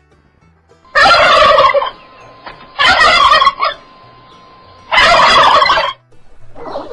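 Three loud animal calls, each just under a second long, about two seconds apart.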